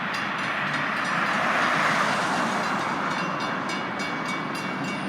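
Freight train cars rolling past over a road crossing: the steady noise of wheels on the rails as the last of the train goes by.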